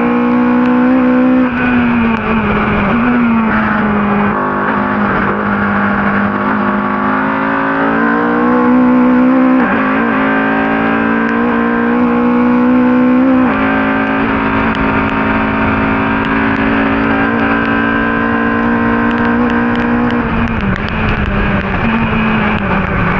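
Ford Cortina race car's engine running hard at high revs. Its pitch holds and climbs slowly, then drops suddenly three times at gear changes or lifts: once just after the start, once about halfway and once near the end.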